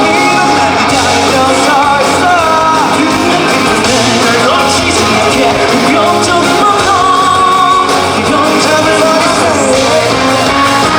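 Live rock band playing loudly with singing.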